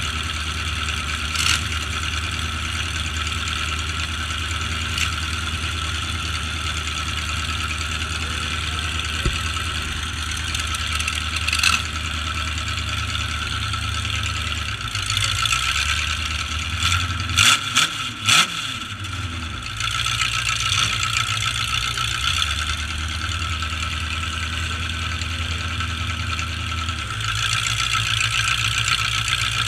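Demolition-derby truck engines running with a steady low drone, the revs rising and falling around the middle. Sharp bangs come every few seconds, with a cluster of three close together about two-thirds of the way through.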